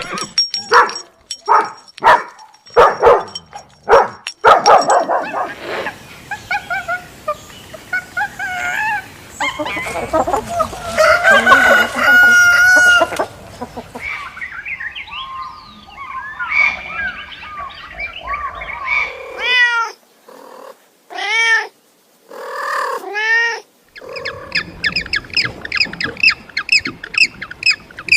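A succession of different animal calls: sharp knocks or clicks for the first five seconds, then a run of pitched calls, and repeated arching bird calls in the second half.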